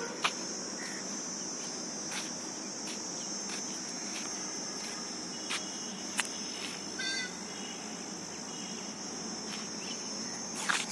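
Steady high-pitched drone of insects, with a few faint clicks and a short rapid call about seven seconds in.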